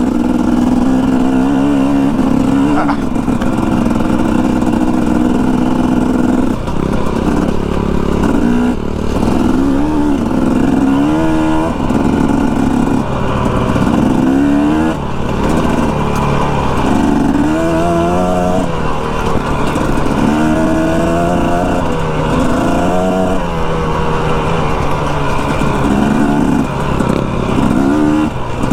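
Dirt bike engine being ridden. It holds a steady note at first, then revs up and drops back over and over, about every one to two seconds, with the throttle worked and the gears shifted.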